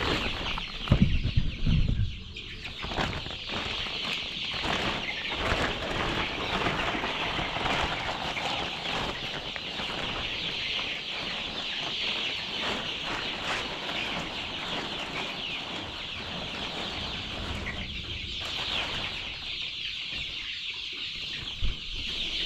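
A large flock of laying hens clucking and chattering continuously, hungry and expecting feed. A few loud low thumps come about a second in, and a short knock near the end.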